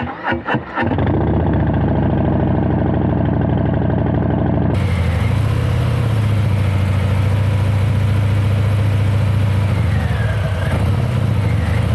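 Harley-Davidson Milwaukee-Eight 114 V-twin on a Fat Bob, exhaust running steadily with a low, even note. The character of the sound changes abruptly about five seconds in.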